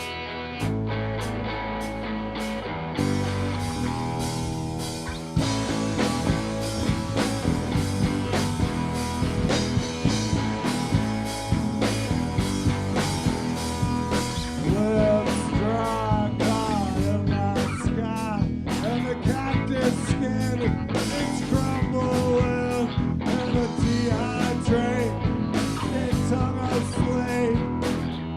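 Live psychedelic rock band playing: a guitar opens alone, and the full band comes in louder about five seconds in. Bending guitar lines follow in the middle.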